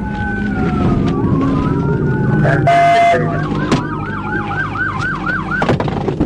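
Police car siren on a pursuing cruiser, wailing in slow rising and falling sweeps over engine and road noise. About three seconds in there is a short steady blast, and then the siren switches to a fast yelp of about four sweeps a second.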